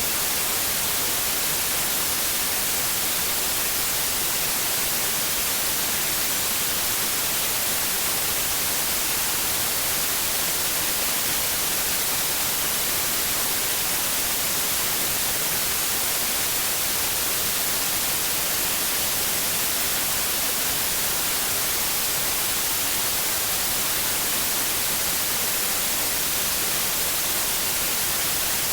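Steady white noise, an even hiss with most of its energy in the highs, unchanging throughout.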